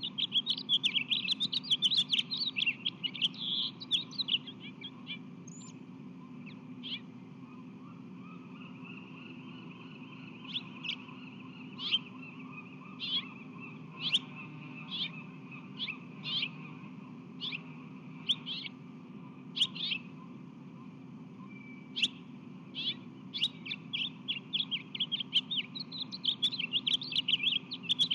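A small reddish songbird chirping near the nest. Fast runs of high chirps come during the first few seconds and again near the end, with single chirps about a second apart in between.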